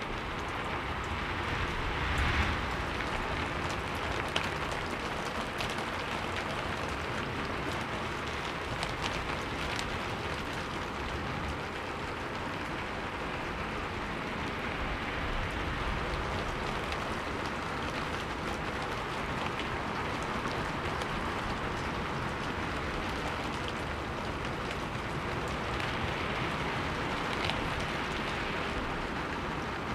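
Steady rainfall, with scattered individual drop ticks and a slightly louder gust of rain about two seconds in.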